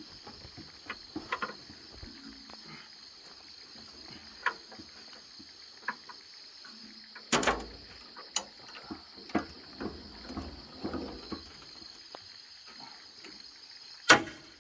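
Steady high-pitched chorus of night insects, with scattered rustles and clicks, and two loud sharp knocks about seven and fourteen seconds in.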